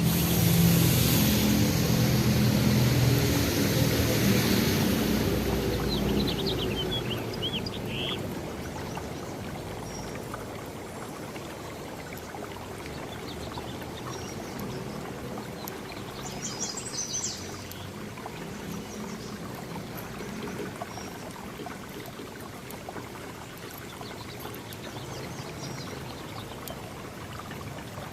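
A motor engine running close by during the first several seconds, then fading away, over a steady background hiss. A few short, high bird chirps come through about four to six seconds in and again around seventeen seconds.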